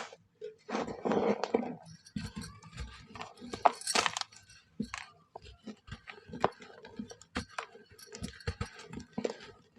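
Dry molded shapes of mud, charcoal and red sand crumbling: an irregular run of sharp crackles and clicks, with denser crumbling bursts about a second in and again around four seconds.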